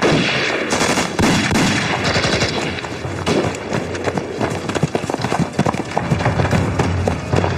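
Battle gunfire from a war drama's sound mix: many shots in quick succession, like rifles and machine guns firing together, over a constant din.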